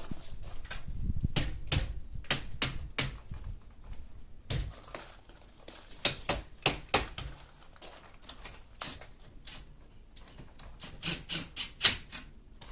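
Irregular sharp clicks and taps of hard objects knocking together, in bunches, the loudest near the end, with a low rumble early on.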